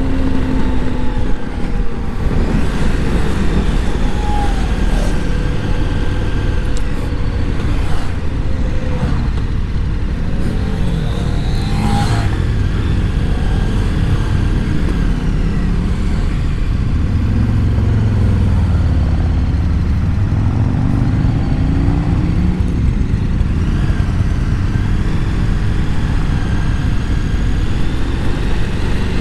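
KTM 1290 Super Adventure S's V-twin engine running under way, its pitch rising and falling as the rider works the throttle, with steady wind and road noise on the helmet microphone.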